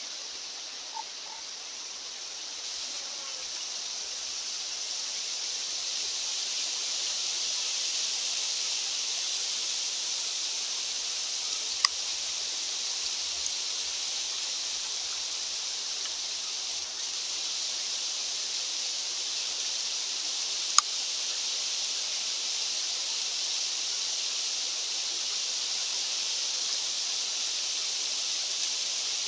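Steady mountain wind hiss that swells slowly for several seconds and then holds even. Two brief sharp clicks come through, one near the middle and one about two-thirds of the way through.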